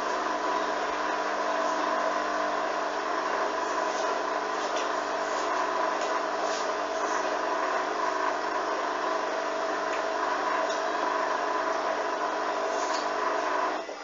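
Hoover washing machine motor running steadily with a constant whine as the drum turns, trying to get up to spin with an unbalanced load that won't distribute. The motor cuts off abruptly just before the end.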